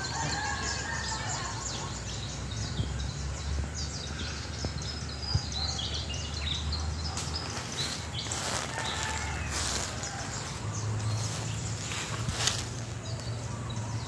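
Several birds chirping and calling in short, scattered notes over a low steady rumble, with a few brief rustles, mostly between about seven and ten seconds in and again near the end.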